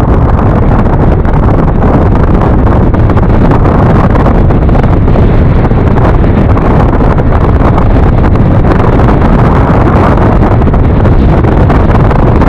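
Loud, steady wind noise rushing over the microphone of a scooter rider at riding speed.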